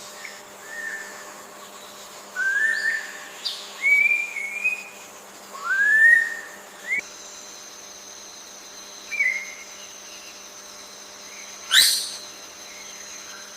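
A bird giving a series of short rising whistled notes at irregular intervals, with one sharper sweeping call near the end, over a faint steady high-pitched drone.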